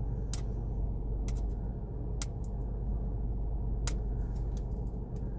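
Sharp plastic clicks and ticks, four or five of them spread out, from handling a plastic toy capsule and working at its tear strip, over a steady low hum inside the car.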